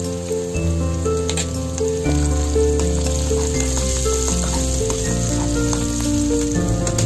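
Onion, red bell pepper and carrot slices sizzling in hot oil in a wok as they are stirred with a spatula, with a few sharp clicks of the spatula. Background music with held notes and a stepping bass line plays over it.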